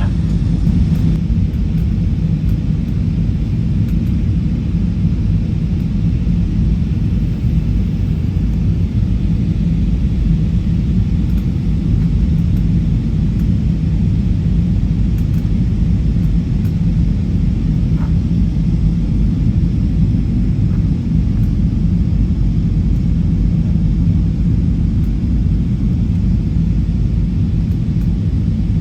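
Cebu Pacific airliner's engines and airflow heard inside the passenger cabin: a steady low rumble with a faint constant hum.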